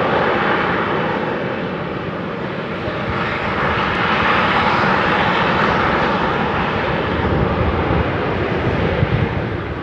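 Semeru volcano's crater venting ash continuously: a steady jet-like roar with a deep rumble beneath, swelling again about four seconds in.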